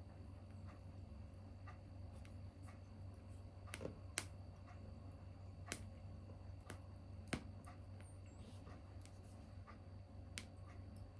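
Small tabletop wood fire crackling: sparse, irregular sharp pops and snaps, the loudest about four, six and seven seconds in, over a steady low hum.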